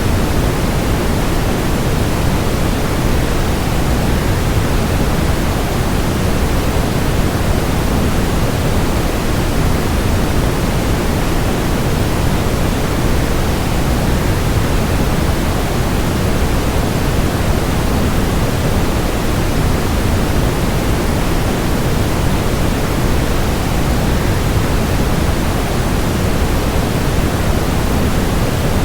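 Waterfall rush blended with white noise: a loud, even, unbroken hiss with a deep rumble under it, not changing at all.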